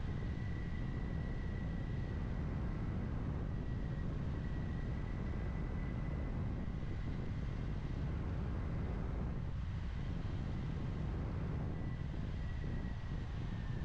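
Kawasaki Ninja 400's parallel-twin engine running at a steady cruise, mixed with wind rush on the helmet microphone. A thin, steady high whine sits on top and dips slightly in pitch near the end.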